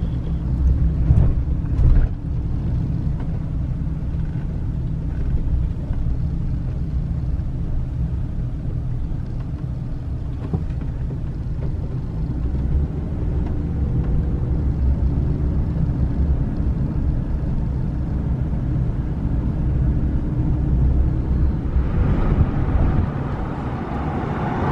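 Steady low road rumble of a vehicle driving along a highway, swelling into a louder rush near the end.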